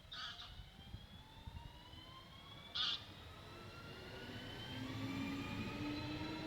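Electric locomotive or train approaching, its motor whine rising slowly in pitch as a low rumble builds. Two short, higher-pitched sounds cut in, one at the start and one about three seconds in.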